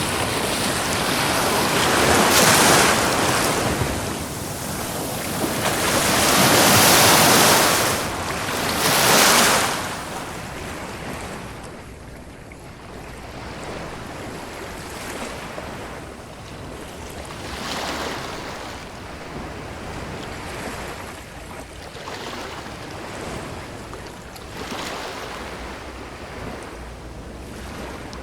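Ocean waves breaking and washing up a beach. Three big surges come in the first ten seconds, followed by smaller, quieter swells every few seconds.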